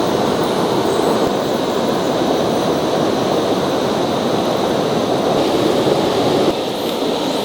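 A loud, steady rushing noise with no distinct tones, which drops a little in level with a sudden change about six and a half seconds in.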